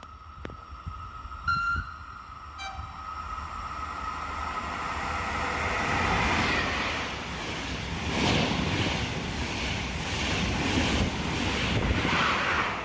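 A train horn gives two short toots, then a train runs past, its noise building over several seconds and staying loud with a rhythmic clatter of wheels over rail joints.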